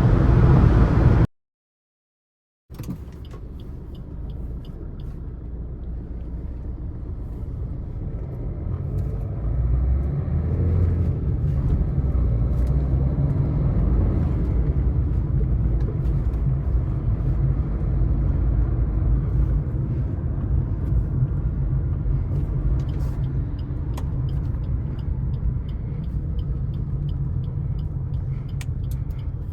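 Low, steady in-cabin rumble of a Suzuki S-Cross 1.3 DDiS diesel on the highway, engine and road noise, building up over the first ten seconds or so and then holding steady. It follows a short loud sound at the very start and a second of silence.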